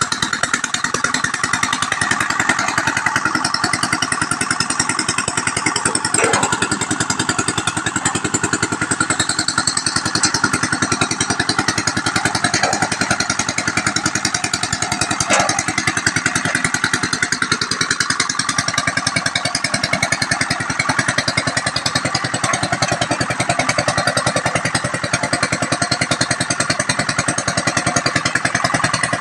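Engine-driven palm fruit pressing machine running steadily under test, the engine chugging with a fast, even beat. A few short knocks sound over it.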